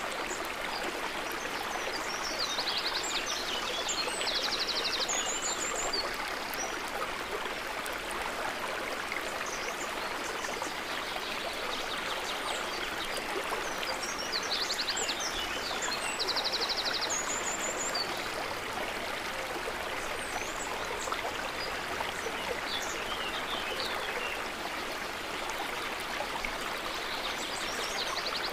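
Water trickling and babbling steadily, with small birds chirping and giving short rapid trills in three spells, near the start, about halfway and near the end.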